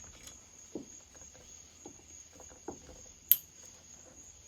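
Light clicks and taps of an Allen key and hand tools working on a chainsaw's cylinder bolts, with one sharp metallic click about three seconds in. A steady high-pitched tone runs underneath.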